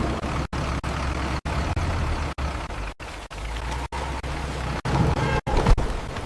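Rumbling vehicle engine with a steady wash of noise, cut off abruptly and restarting every half second to a second, with a louder stretch near the end.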